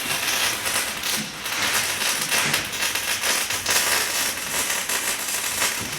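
Electric arc welding: a steady, dense crackle and sputter from the welding arc as a bead is laid.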